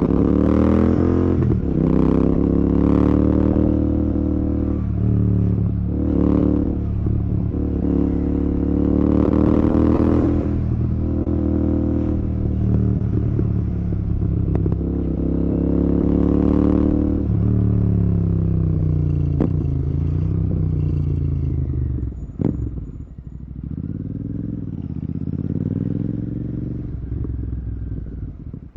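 Royal Enfield Continental GT 650's 648 cc parallel-twin engine, breathing through a Red Rooster aftermarket exhaust, under way on the road. The engine note rises and falls several times as the throttle is opened and closed, then drops about 22 seconds in to a lower, steadier beat.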